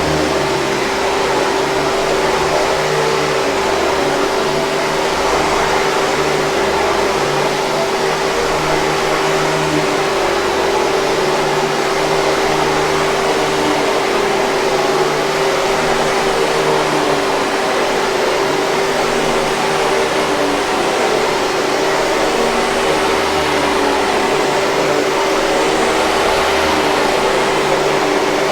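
Hoover 5000 Series canister vacuum cleaner running steadily: a constant motor hum over an even rushing hiss of air, with no change in speed.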